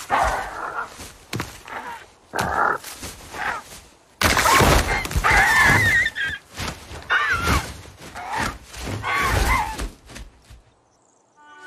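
Large bird squawking with wavering, pitch-bending cries amid thuds and wing flaps as it struggles with an eggshell stuck over its head. The commotion stops about ten and a half seconds in, and music starts right at the end.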